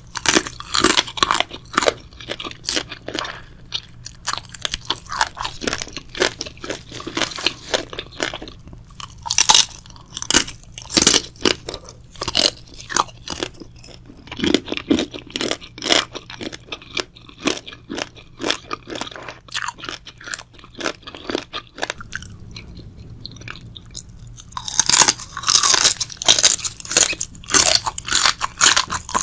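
A person chewing crunchy food, crisp crunches coming in clusters with loud spells of biting and chewing and a quieter pause about three quarters of the way through.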